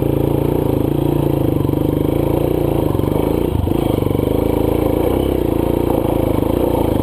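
Honda CRF230 dirt bike's single-cylinder four-stroke engine held at steady high revs, its pitch wavering slightly, as the rear tyre spins with no traction in deep, loose sand.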